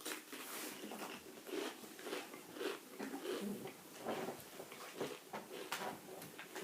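Close-up crunching and chewing of a mouthful of Pringles crisps: a quick, irregular run of crisp cracks and bites.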